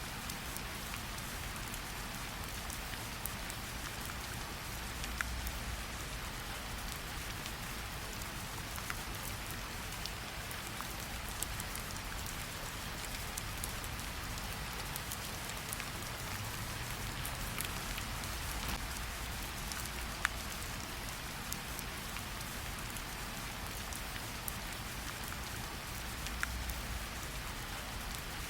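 Steady light rain pattering on tree leaves, with scattered distinct drops tapping here and there.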